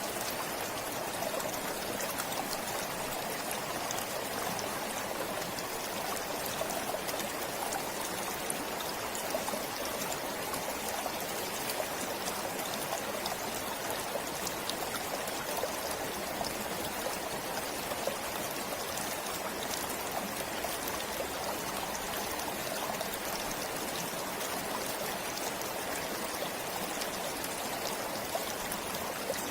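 A forest stream flowing steadily, a constant rush of water with fine splashing and trickling over it.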